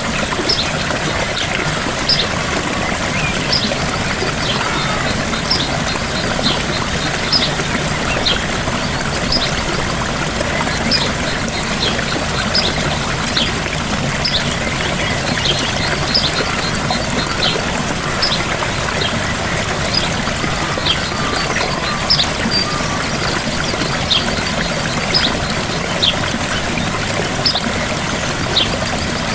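Gentle waterfall: a steady rush and splash of falling water, with short high chirps recurring about once or twice a second.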